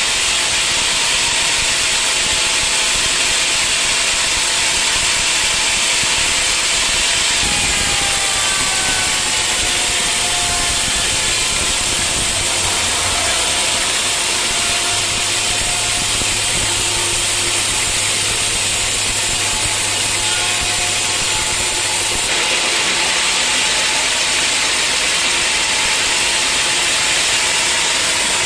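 Sawmill running and sawing through a teak log: a loud, steady mechanical noise with abrupt shifts about 7 and 22 seconds in.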